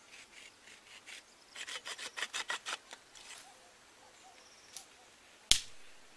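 Hand-making a wooden catapult: a run of quick rubbing, scraping strokes, then one sharp snap about five and a half seconds in.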